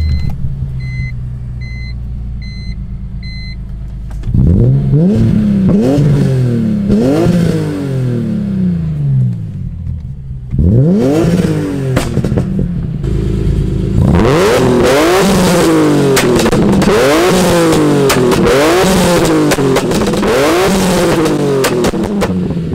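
BMW E46 M3's S54 straight-six on an RKTunes tune idling with an electronic beep repeating about twice a second. From about four seconds in it is free-revved again and again toward redline, each rev rising and falling back. From about halfway the revs come faster and are peppered with loud exhaust pops and bangs on the overrun, the backfire that makes the exhaust shoot flames.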